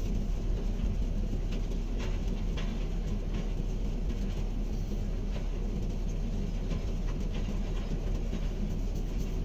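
Hydraulic excavator's diesel engine running steadily under work, with light clicks and rattles over the rumble.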